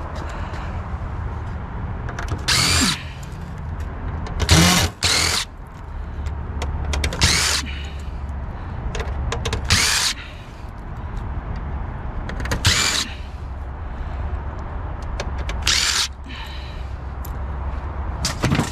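Cordless drill-driver running in short bursts, about seven times, backing out screws while a printer is stripped for scrap, over a steady low rumble.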